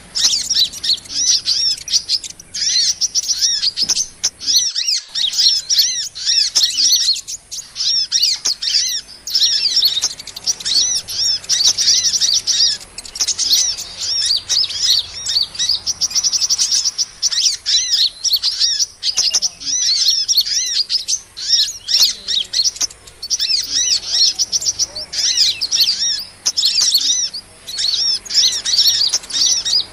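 Sunbirds (Indonesian 'kolibri') chirping: rapid, high-pitched twittering calls repeated densely, almost without pause. It is a bird-trapper's lure call, played to draw small birds in.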